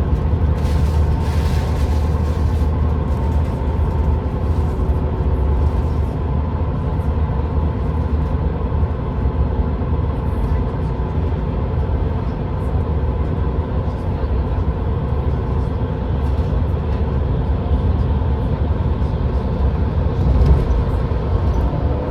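Steady low rumble of a moving vehicle, with faint steady humming tones above it.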